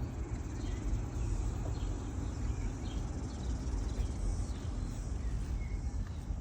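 Outdoor park ambience: a steady low rumble, with short high bird chirps repeating about once or twice a second and a faint high insect hiss.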